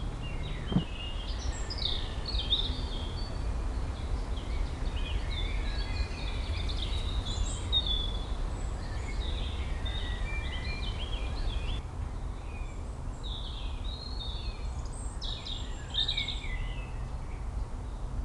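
Several birds chirping and singing in short phrases, over a steady low background rumble of outdoor ambience.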